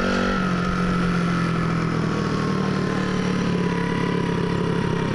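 Small pit bike engine running at a steady low-speed throttle as the bike is ridden, with a higher whine that slowly falls in pitch.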